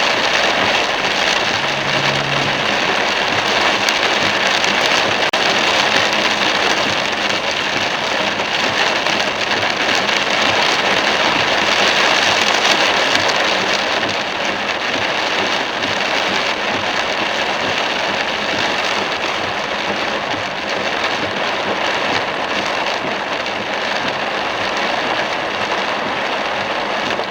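Torrential rain pelting a moving car, mixed with the hiss of its tyres on the streaming wet road: a dense, steady hiss that eases a little about halfway through.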